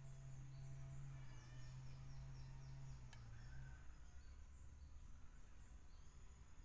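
Faint outdoor ambience: a small bird gives a quick run of high, falling chirps about a second and a half in, over a steady low hum that stops a little past halfway, with a single faint click near the middle.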